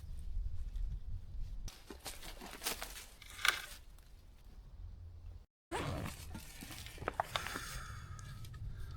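Dry leaves, twigs and brush rustling and snapping in irregular bursts as they are handled and trodden, with a few sharp cracks a couple of seconds from the end. The sound cuts out for a moment about halfway through.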